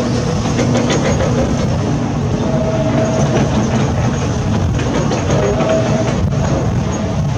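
Heavy construction machinery working: a loud, steady diesel-engine rumble with clanking and a few brief high metallic squeals.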